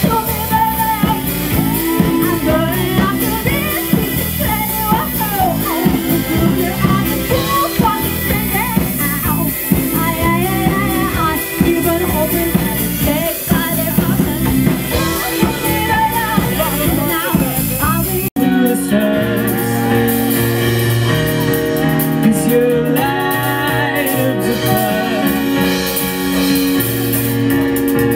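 Live amplified rock band playing, with drums, bass and electric guitar under a wavering lead melody. About 18 seconds in the sound breaks off abruptly for an instant and picks up in a different passage with longer held notes.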